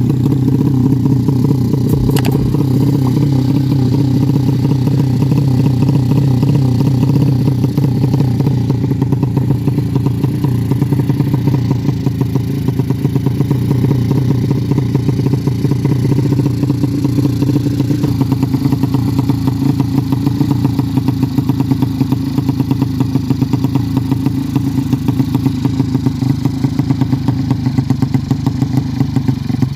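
Race-tuned 200cc single-cylinder four-stroke engine of a Yamaha Jupiter-based drag moped, fitted with a PWK Sudco 33 carburettor, idling steadily with a fast, even pulsing beat. The pulses grow more distinct in the second half.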